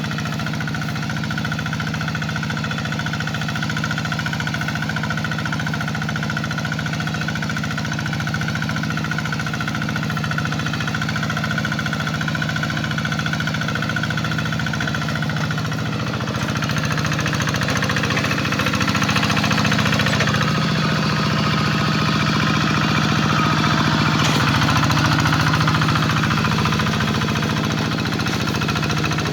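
Hand tractor's engine running steadily while ploughing a wet rice paddy. About halfway through a rougher, noisier sound joins and it gets somewhat louder.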